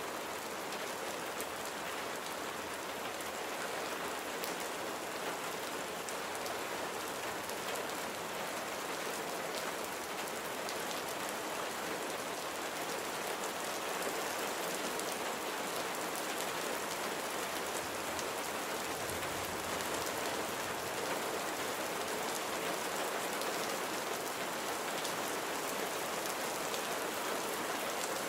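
Steady rain falling, a dense even hiss with fine scattered drop ticks on a surface.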